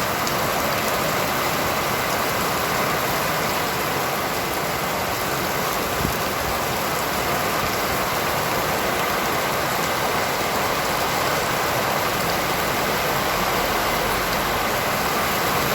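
Heavy rain falling steadily, an even hiss, with one faint tap about six seconds in.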